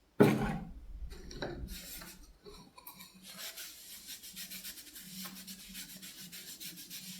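A sharp knock right at the start, then a cloth rubbing finish into bare wood in quick, even back-and-forth strokes.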